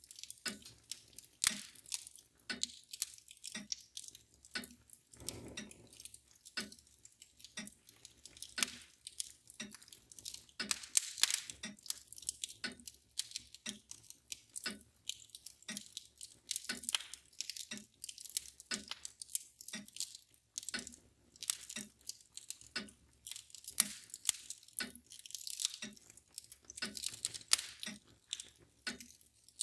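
Wood fire crackling with irregular sharp pops and snaps, and a mantle clock ticking steadily underneath.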